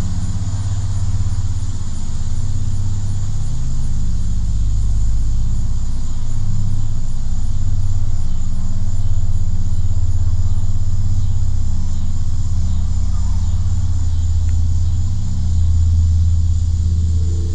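Loud, steady low rumbling drone, made of a few deep humming bands that swell and fade slightly, with no clear beginning or end: the kind of unexplained rumble recorded as a strange sound in the sky.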